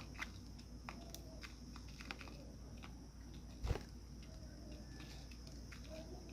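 Budgerigars pecking and nibbling at food in the cage, a scatter of light clicks and taps, with one louder knock about three and a half seconds in.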